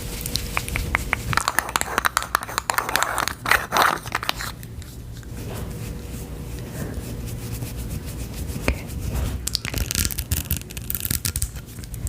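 Close-miked ASMR handling sounds: dense scratching and crackling, busy for the first few seconds, quieter in the middle, then busy again near the end.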